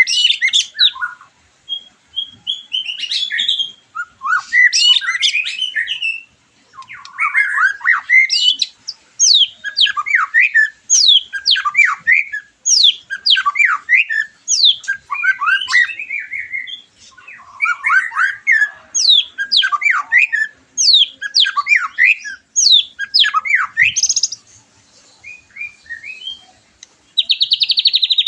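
White-rumped shama (murai batu) singing: a long, varied song of quick, sharply falling whistles and chattering notes, ending in a fast buzzy trill near the end.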